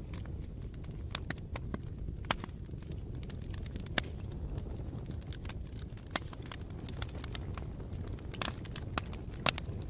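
Wood fire burning with a steady low rumble and irregular crackles and pops, the loudest a sharp snap near the end.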